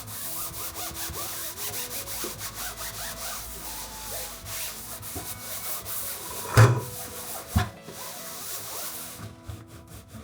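Quick, repeated rubbing strokes against a surface that stop near the end, with a sharp knock partway through and a lighter one about a second later.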